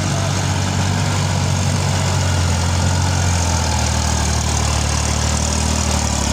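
Tractor diesel engine running steadily. Its low note shifts slightly about halfway through.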